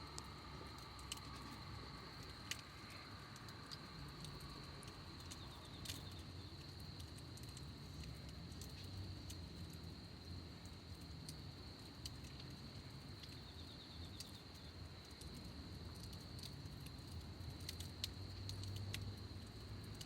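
Wood fire crackling, with irregular sharp pops scattered over a low steady rumble. A steady high-pitched tone runs underneath.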